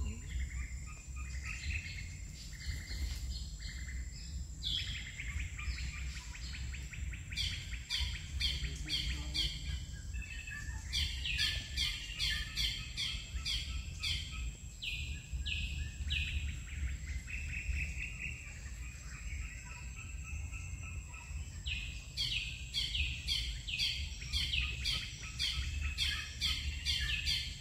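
Birds chirping: runs of short, quick, high falling notes, several a second, coming in bouts, over a steady low rumble.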